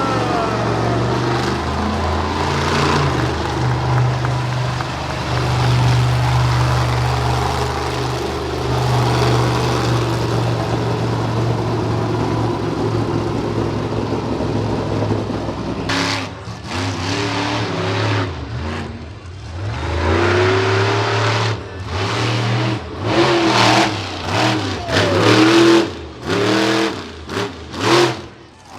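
Monster truck engine running hard at steady throttle, then from about halfway through a string of short revs, the throttle stabbed open and shut so the pitch climbs and falls each time.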